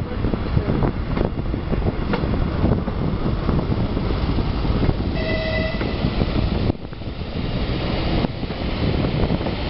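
Regionova diesel railcar running along the track, wheels rumbling and clicking over the rails with wind at the open window. A short horn blast sounds about five seconds in, and the running noise dips for a second or so around seven seconds in.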